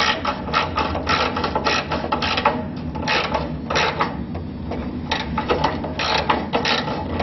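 Hand socket ratchet clicking in quick runs of strokes with short pauses, turning in a StudFix clamp bolt on the exhaust manifold, over a steady low hum.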